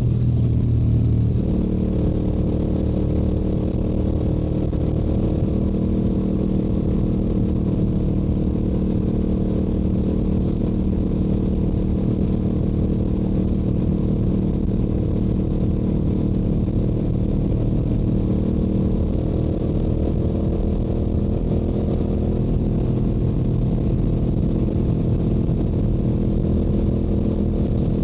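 Yamaha YZF-R7's 689 cc parallel-twin engine through its stock exhaust, running steadily at highway cruising speed. The engine note changes briefly about a second in, then holds steady.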